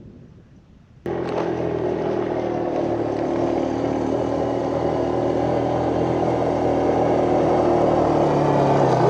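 Off-road vehicle engine running steadily while riding. It cuts in abruptly about a second in, after faint wind noise.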